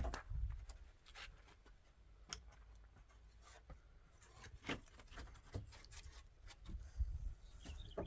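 Faint scattered clicks, taps and scrapes, like hand work on wood or masonry, over a steady low rumble.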